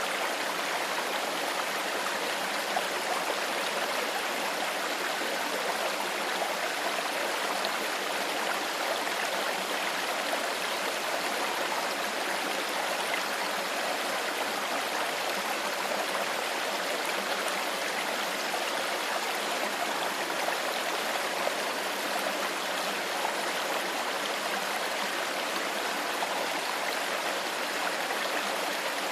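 A clear stream flowing steadily over stones: an even rushing and babbling of water with no breaks or single events.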